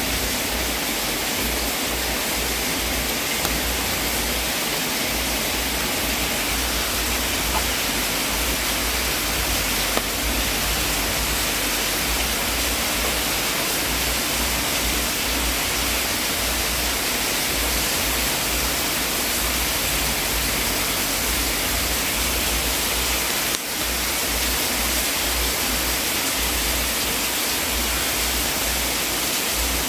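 Wood fire in a fireplace burning with a steady rushing hiss and a few faint pops.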